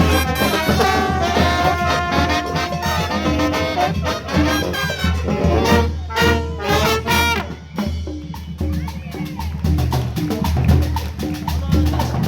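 A brass-and-percussion marching band playing Latin dance music, with trumpets over drums. About two-thirds of the way through the horns drop back and the drums carry the beat.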